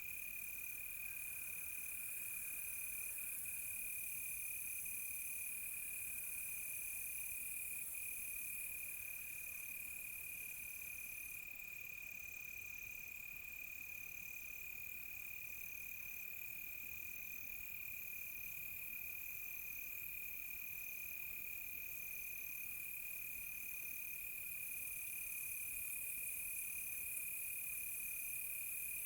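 Night chorus of crickets: a steady high-pitched trill, a higher insect call that pulses on and off in a regular rhythm, and a faint high hiss of many more insects.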